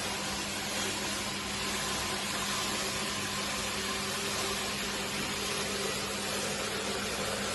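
Steady hiss of spraying water, with a low steady hum underneath.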